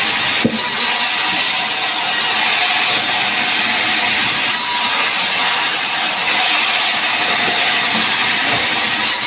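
Sawmill saw cutting a mahogany log, giving a loud, steady hissing noise, with a single knock about half a second in.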